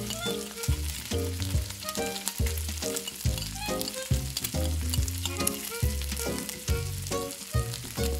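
Beef, tomato and onion filling sizzling in a tiny metal pan while a small spoon stirs it. Background music with a steady bass pulse plays along.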